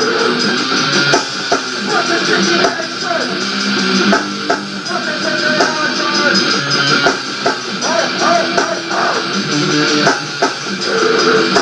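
Rock band playing: strummed electric guitar over a drum kit, with a thin sound and little deep bass.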